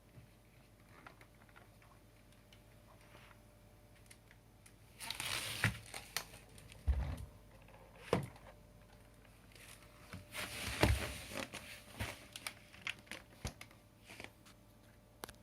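Plastic parts of a cordless stick vacuum being handled, starting about five seconds in: rustling and clattering with sharp clicks and a few low thumps as pieces are fitted, set down or taken apart. The vacuum's motor is not running.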